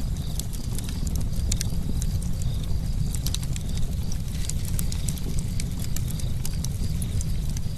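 Campfire burning: a steady low rumble of flame with many sharp, irregular crackles and pops.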